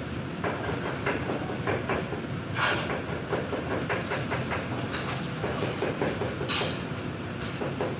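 Kitchen work sounds: a run of small knocks and clicks over a steady low rumble, with two brief hissing scrapes, one about two and a half seconds in and one about six and a half seconds in.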